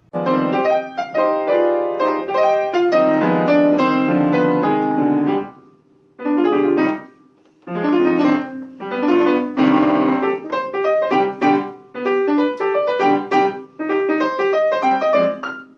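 Piano playing several short phrases of struck notes and chords, with brief pauses between them.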